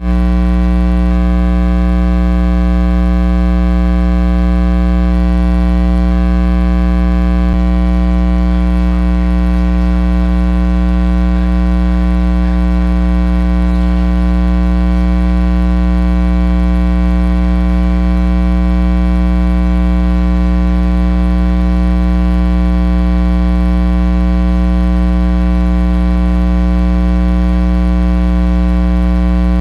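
Loud, steady electrical mains hum with a stack of many overtones, unchanging throughout.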